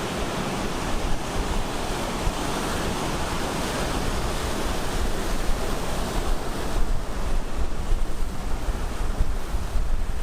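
Ocean surf breaking and washing onto the shore as a continuous roar of noise, with surges in the second half.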